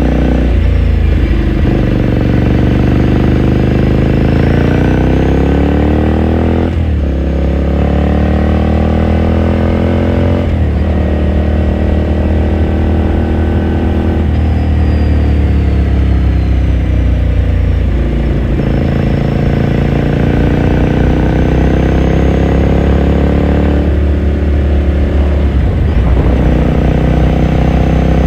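2018 Ducati Scrambler Sixty2's air-cooled 399 cc L-twin exhaust, heard onboard while riding: the engine note climbs in pitch in each gear and drops at each upshift, about five times, with spells of steady or slowly easing pitch between.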